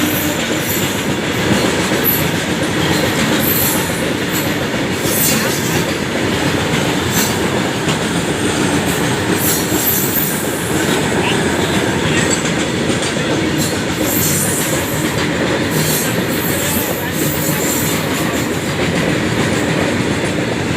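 Freight train passing, its wagons rolling by with a steady loud rumble and irregular sharp clicks and clanks from the wheels on the rails.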